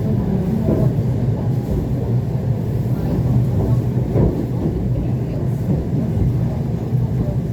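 ET2 electric train running, heard from inside the passenger car as a steady low rumble.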